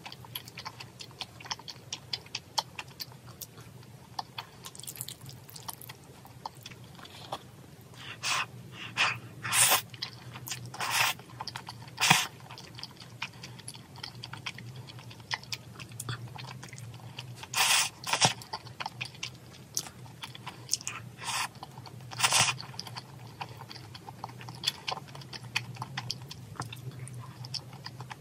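Close-miked chewing and mouth sounds of someone eating Andong jjimdak, braised chicken with chewy udon noodles and rice: a steady run of small wet clicks and smacks, with a few short, louder bursts of mouth noise in two clusters, about a third and two-thirds of the way in.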